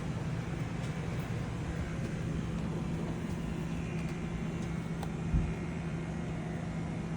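Steady low mechanical hum, with a single low thump about five seconds in.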